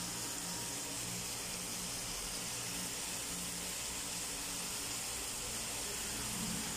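Chicken liver and petai sambal sizzling steadily in a steel wok over the heat, undisturbed, with a low hum underneath.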